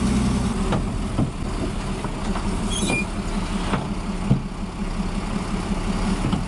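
Engine of a heavy vehicle or machine running steadily, with scattered knocks and a brief high squeak about three seconds in.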